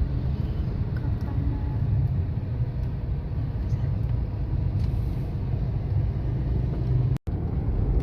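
Car driving along a road, heard from inside the cabin: a steady low rumble of engine and tyre noise. It drops out for an instant about seven seconds in.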